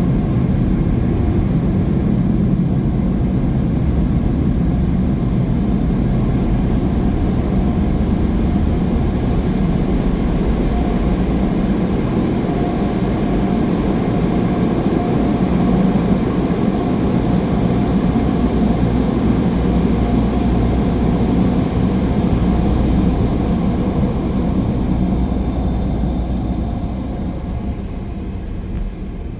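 Automatic car wash machinery running with a steady, loud rush, fading over the last few seconds.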